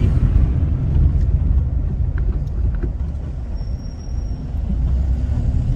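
Steady low road-and-engine rumble heard inside a moving car's cabin, easing off a little about four seconds in.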